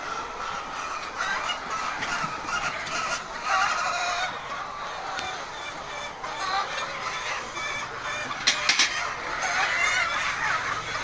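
A flock of hens clucking and calling all together, many overlapping voices, with a quick run of three sharp clicks about eight and a half seconds in.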